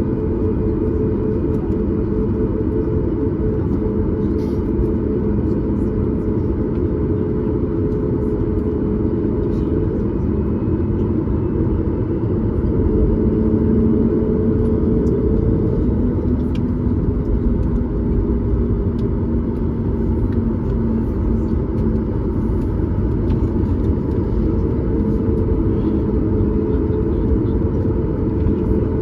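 Boeing 737 MAX 8 cabin noise heard from a window seat just behind the wing: a steady low rumble of the CFM LEAP-1B engines and airflow, with engine tones that shift slightly in pitch a couple of times.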